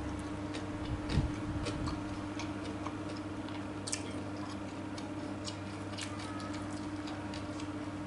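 A person chewing stuffed fried tofu close to the microphone: irregular wet mouth clicks and smacks, with a low thump about a second in, over a steady low hum.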